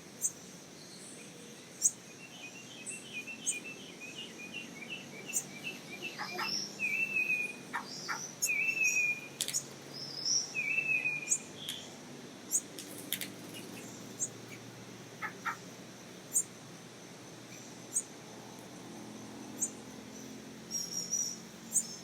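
Black-cowled oriole calling: a quick run of short whistled notes, then several slurred, falling whistles a second or two apart. Sharp clicks are scattered throughout.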